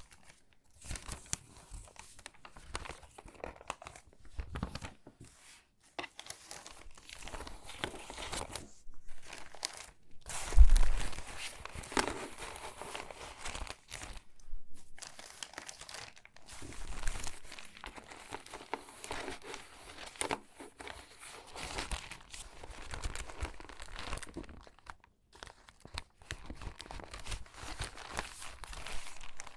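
Stiff, crinkly water-damaged magazine pages being handled and shuffled: irregular rustling and crackling with short pauses, and one louder crunch about ten and a half seconds in.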